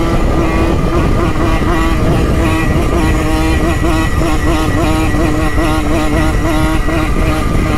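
Simson moped's single-cylinder two-stroke engine running steadily under way, its pitch wavering slightly, over a constant low rumble.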